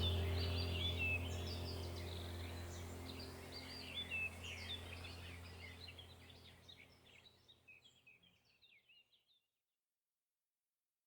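Many songbirds chirping, with a low steady drone underneath. Both fade out gradually and are gone by about seven seconds in.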